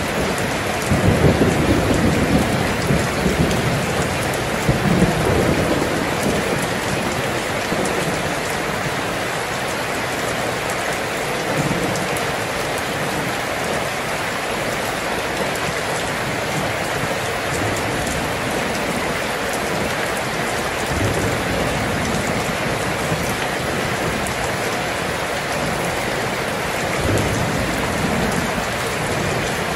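Steady heavy rain with low rolls of thunder, the strongest rumble about a second in and another near the end.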